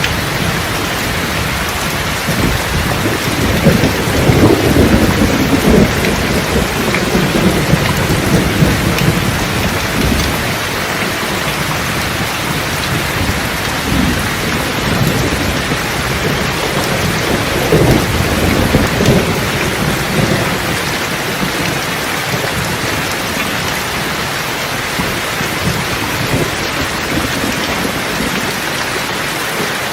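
Steady rain falling, with rolls of thunder rumbling under it: a long one a few seconds in and a shorter one a little past the middle.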